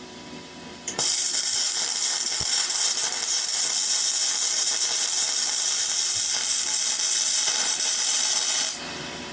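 Flux-core arc welding with a Parkside PMSG 200 A1 wire-feed welder: a steady crackling hiss of the arc that starts suddenly about a second in and cuts off sharply near the end as the trigger is released.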